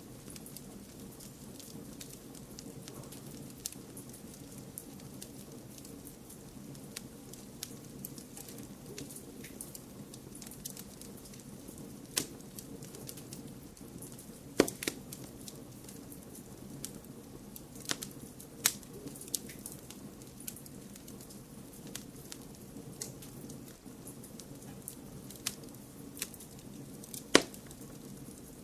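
Wood fire crackling in a fireplace over a steady low rush, with scattered sharp pops at irregular intervals; the loudest pops come about halfway through, at about two-thirds, and near the end.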